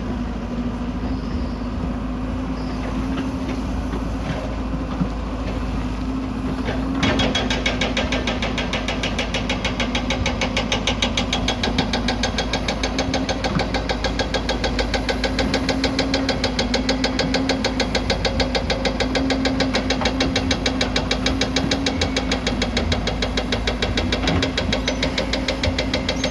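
Hydraulic excavator's diesel engine running steadily. About seven seconds in it gets louder and a rapid, even knocking rhythm sets in.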